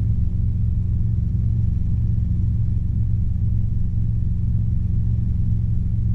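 Robinson R22 helicopter in straight and level cruise: a steady low drone of engine and rotor that holds at one level without change.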